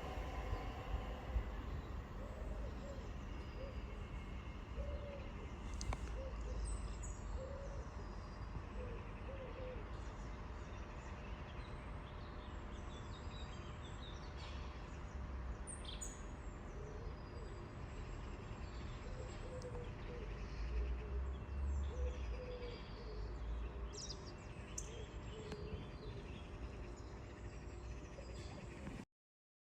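Birds calling: low, hooting notes come in short groups every few seconds, with scattered higher chirps, over a steady low background rumble. The sound cuts off suddenly near the end.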